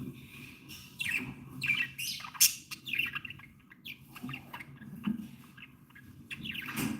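Several budgerigars chattering, with a rapid run of short chirps and scratchy squawks, busiest in the first few seconds and again near the end.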